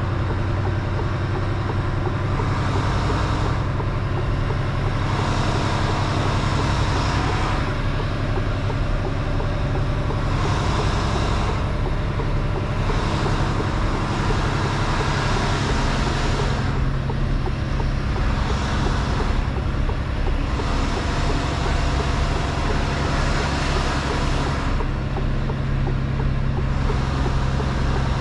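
Mercedes-Benz Actros truck's diesel engine running steadily, with a low, even hum and a hiss that swells and fades every few seconds.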